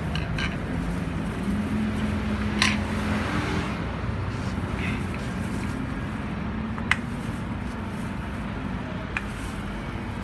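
A steady low engine hum, with a few sharp metallic clinks of tools against metal.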